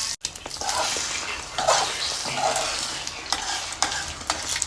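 Eggs sizzling in a frying pan while a utensil stirs them, with frequent short scrapes and clicks against the pan.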